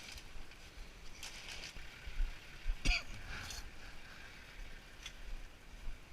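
Faint scattered knocks and rattles of a tankless water heater being taken apart by hand, with one sharp click about three seconds in.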